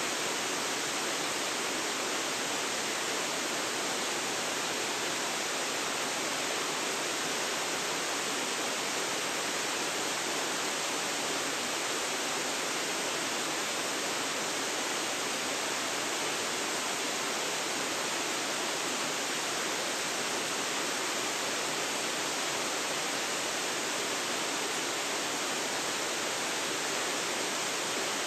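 Waterfall pouring: a steady, unchanging rush of falling water, more hiss than rumble.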